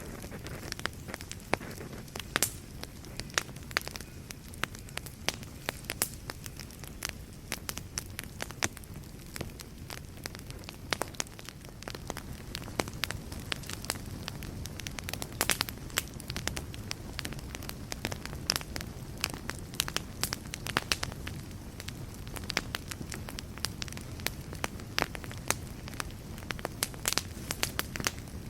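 Wood fire burning in a fireplace: a steady low rumble of flames under frequent irregular crackles, with a few louder pops.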